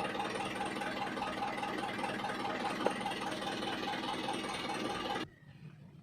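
A remote-control model truck or excavator makes a steady mechanical running sound, like a small engine idling with a fine, even rhythm. It cuts off suddenly about five seconds in.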